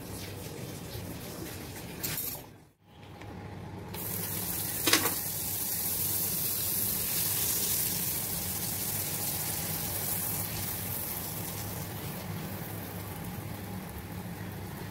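Bread frying in melted butter in a pan, a steady sizzle that starts about four seconds in and eases slightly toward the end. A single sharp tap comes just after the sizzling begins.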